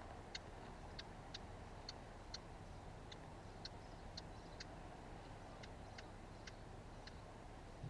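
A small songbird giving short, sharp ticking calls, faint, irregularly about two a second.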